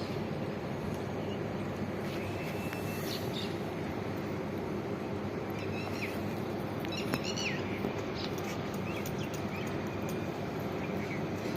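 Birds chirping in short calls several times over a steady low rumble, with a single sharp click about seven seconds in.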